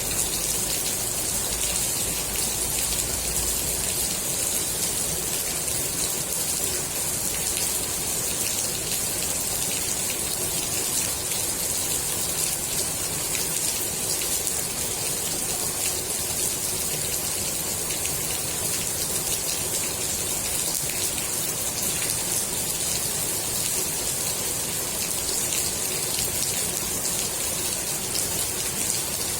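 Steady rain falling on and around a swimming pool, a dense even patter of drops hitting the water with a bright hiss.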